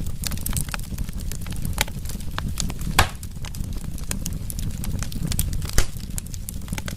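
Burning wood fire crackling over a steady low rumble, with many small snaps and two louder pops, one about three seconds in and one near six seconds.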